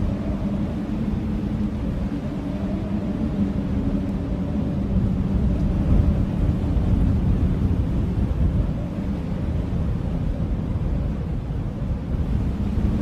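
Blizzard wind howling steadily over a deep low rumble of gusts, swelling slightly around the middle. A faint hollow howl tone fades out partway through and returns near the end.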